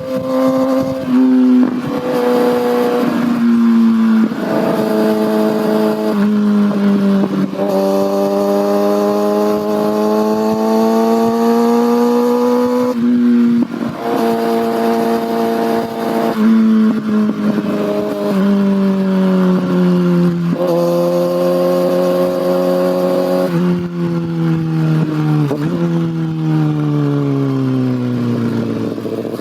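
Kawasaki ZX6R's inline-four engine and exhaust under way, the note climbing in each gear and dropping sharply at each shift, about half a dozen times. Over the last few seconds the pitch falls steadily as the bike slows.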